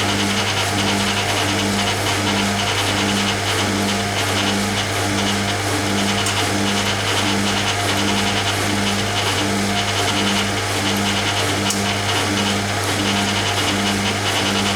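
Hoover Keymatic A3112 washing machine draining: a steady low hum with a regular pulse about one and a half to two times a second.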